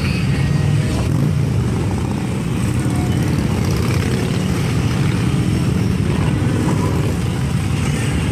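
Many Harley-Davidson V-twin motorcycles riding past in a group, their engines making a dense, steady low rumble.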